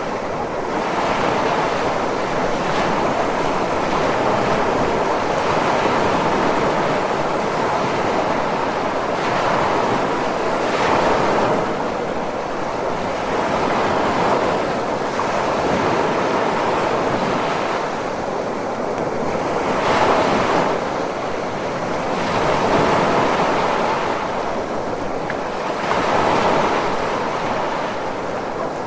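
Ocean waves: continuous surf noise that swells and eases every few seconds as waves break and wash in.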